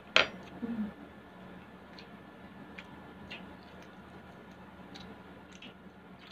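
Close-miked eating sounds: a sharp mouth click just after the start, a brief low hum of the voice under a second in, then faint scattered wet clicks of chewing.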